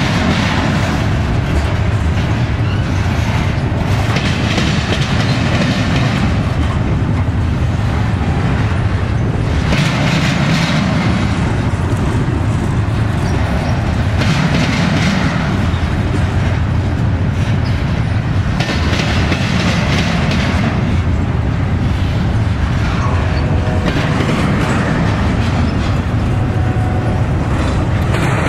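Double-stack intermodal freight train's well cars rolling past: a steady rumble of steel wheels on the rails with clickety-clack, swelling louder every few seconds.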